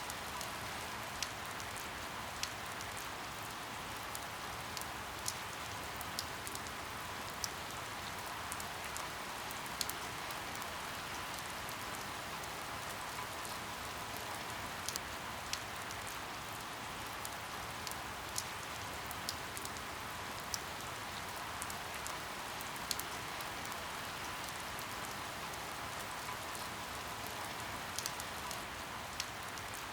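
Steady rain falling, with individual drops ticking sharply now and then at irregular moments.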